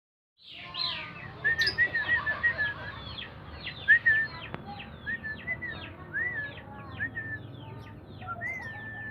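Birds chirping: a quick, continuous run of short calls, several a second, starting about half a second in.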